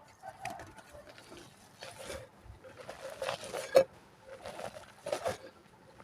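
Dry mud cake crumbling in the hands, crunchy crackling in several short bursts, with one sharp snap about two-thirds of the way in.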